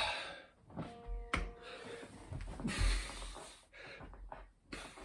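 Heavy breathing and muffled knocks of hands and feet on the floor from a person doing a burpee, with a few hissing breaths and a sharp knock about a second in.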